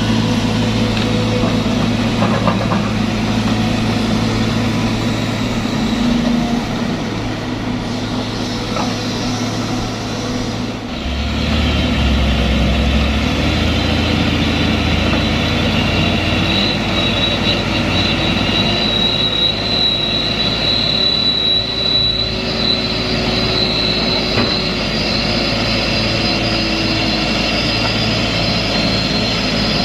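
Truck engine running steadily under load on a steep climb. The low engine note shifts about eleven seconds in, and a high whine comes in during the second half.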